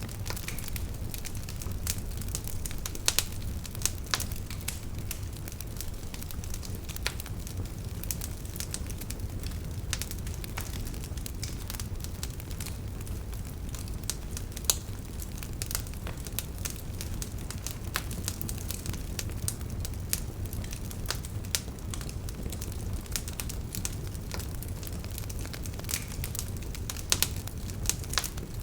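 Wood fire crackling: a steady low rumble of burning with frequent irregular crackles and occasional louder pops.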